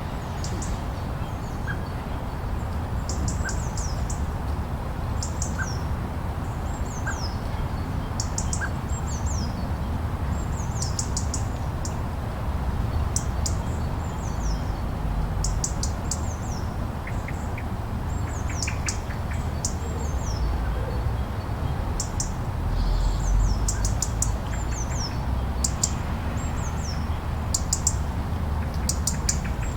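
Steady low wind rumble with small birds chirping over it: short high chirps and quick falling calls repeating throughout.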